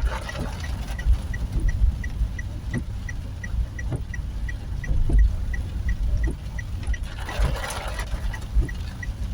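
Storm with heavy rain and wind: a deep, uneven rumble with a faint rushing of water. A regular ticking runs under it about three to four times a second, and a brief louder rush comes about seven seconds in.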